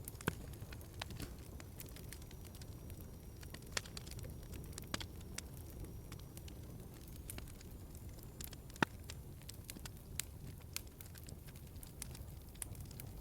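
Wood fire crackling in a fireplace: a low, steady rumble with scattered sharp pops and snaps, the loudest a little before nine seconds in.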